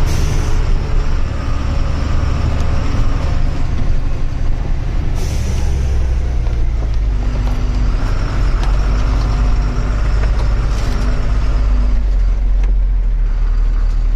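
Heavy truck's diesel engine running steadily as the truck drives, with short air-brake hisses near the start, about five seconds in and again about eleven seconds in.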